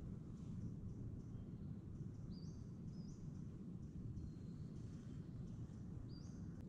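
Faint, high bird chirps, a few short rising notes, over a low steady rumble of forest ambience.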